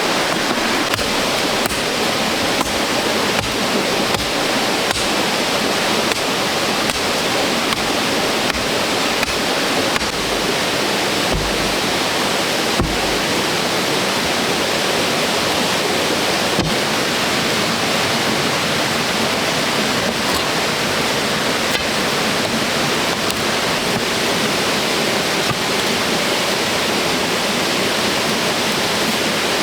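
Steady rushing of running water, with a few faint knocks over it.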